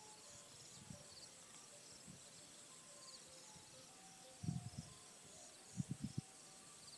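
Faint insect chirping, short high calls repeating throughout, with a few low bumps a little past halfway.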